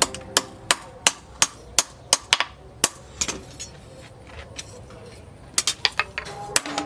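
Hammer striking steel on an anvil, forging a sickle blade from a piece of tractor disc: a run of sharp blows about three a second, a short lull, then more blows near the end.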